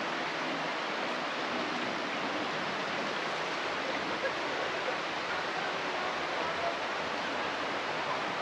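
Flowing water rushing steadily, like a stream.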